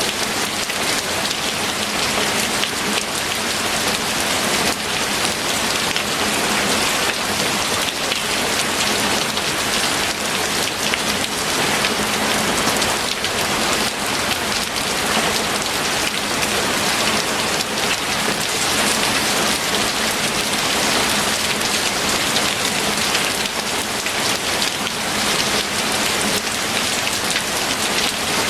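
Steady rain falling on a hard surface, a dense even hiss of many fine drop impacts that keeps up without let-up.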